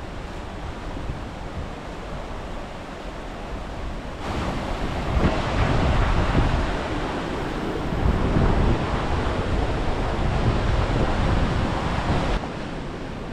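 Rushing water of a river forced through a narrow rocky gorge, a steady roar. Wind buffets the microphone and makes it louder and rumbling from about four seconds in until near the end.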